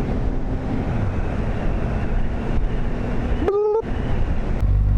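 Wind rushing over a helmet-mounted microphone at riding speed, with a Kawasaki Z800 inline-four engine running underneath. A short pitched tone sounds about three and a half seconds in, and the low rumble grows heavier near the end.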